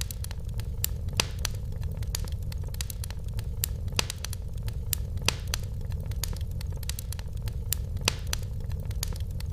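Wood fire burning in a fireplace: irregular crackles and sharp pops over a low, steady rumble of the flames.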